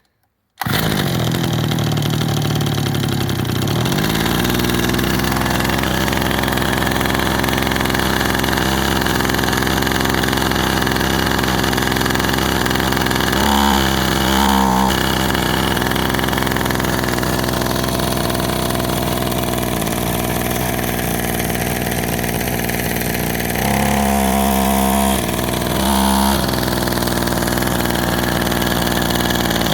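Kawasaki KT12 hedge trimmer's two-stroke engine cold-started on full choke. It catches suddenly about half a second in and runs fast for the first few seconds, then settles into a steady idle. The note changes briefly around the middle and again near the end.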